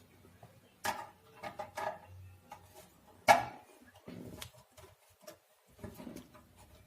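Scattered clicks, taps and light knocks from hands handling small electronic parts and wire connectors during amplifier assembly, with one sharper knock about three seconds in.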